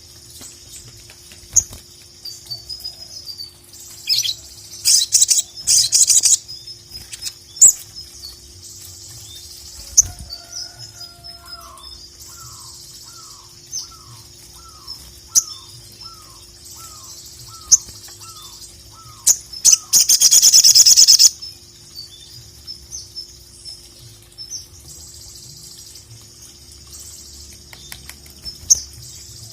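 Sogok ontong (little spiderhunter) calling: sharp high chirps, then a run of about a dozen quick repeated downward-sliding notes, and a loud dense rattling burst about two-thirds of the way through.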